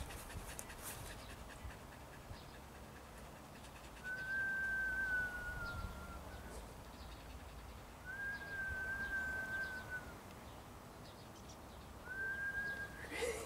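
A person whistling three long, steady notes at the same pitch, each lasting about two seconds, with gaps of about two seconds between them.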